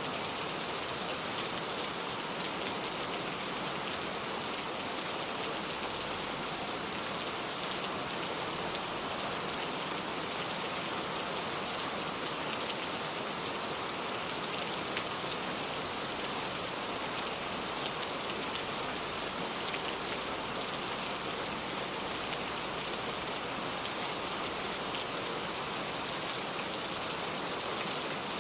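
Steady pouring rain: a dense even hiss with scattered drops pattering on a surface.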